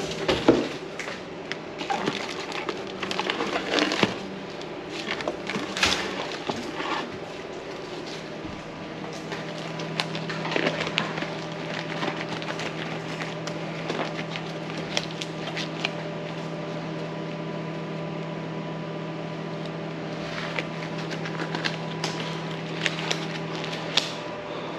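Scattered crackling, clicking and rustling of things being handled, busiest in the first several seconds and again near the end, over a steady low electrical hum.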